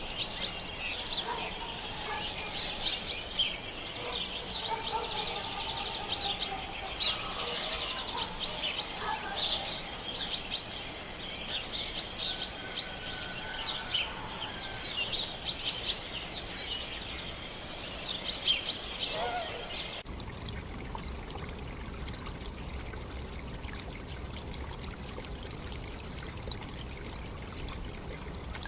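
Many birds calling and chirping together over a steady high hiss, then an abrupt cut about twenty seconds in to the steady rush of a running stream.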